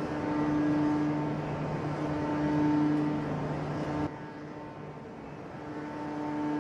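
Heavy hydraulic forging press machinery humming, a low drone with a pitched tone that swells and fades every second or so. The sound drops off abruptly about four seconds in, then slowly builds again.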